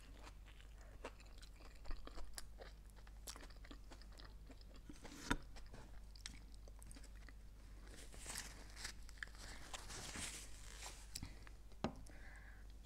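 Close-up chewing of a grill-pressed toasted sandwich: soft crunching of the toasted bread and wet mouth clicks, with a sharper crunch about five seconds in.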